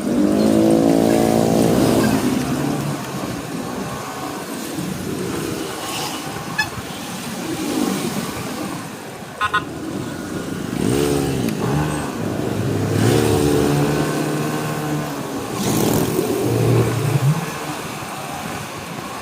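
Motorcycle engine and road traffic during a ride, the engine pitch rising and falling several times as it speeds up and slows down.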